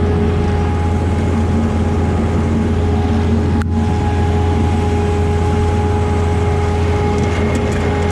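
Volvo diesel engine of a Kleine SF10.2 sugar beet harvester running steadily at working speed: a deep constant hum with steady whining tones above it.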